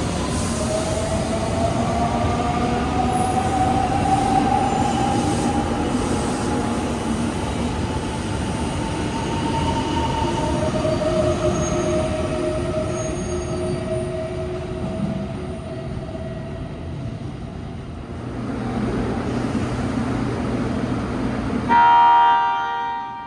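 Electric train pulling out of a station, its motors whining in slowly rising tones over the running noise as it gathers speed. Near the end a short, loud train horn blast sounds.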